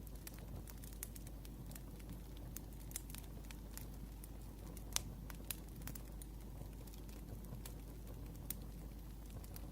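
Wood fire crackling: scattered sharp pops and snaps over a low steady rumble, with the loudest snap about halfway through.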